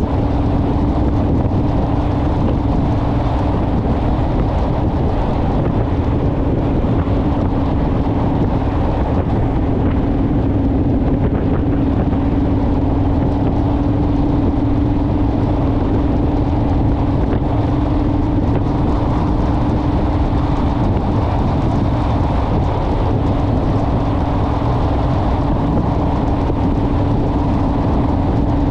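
Honda Rebel motorcycle's parallel-twin engine running at a steady cruising speed, one even engine note that barely changes, over heavy wind rush on the microphone.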